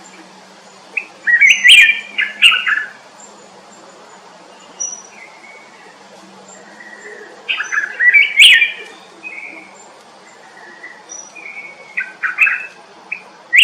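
Songbirds singing: three loud bursts of rapid chirping song a few seconds apart, with fainter, thin, high single notes from other birds in between.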